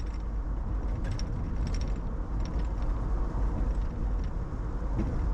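Road and tyre noise inside a moving car on rough, patched pavement: a steady low rumble with scattered light clicks and rattles.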